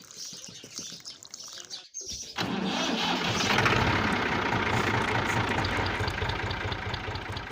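An engine starts about two seconds in and then runs steadily with a fast low pulsing, after faint bird chirps.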